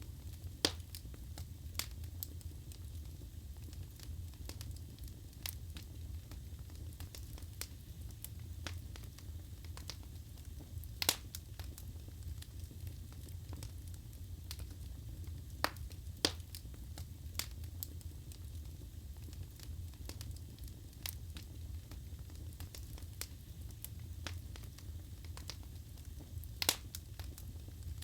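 Wood fire burning in a fireplace: a steady low rumble of flames with scattered sharp crackles and pops from the burning logs. The loudest pops come about 11 seconds in, twice around 16 seconds, and near the end.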